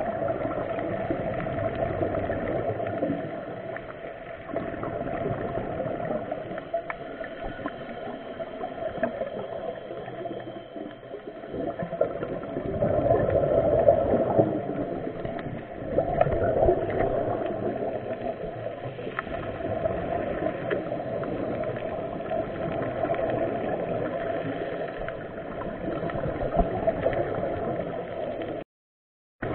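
Muffled rushing water with gurgling, as on a diving trip in the sea. The sound swells for a few seconds midway and cuts out for about a second near the end.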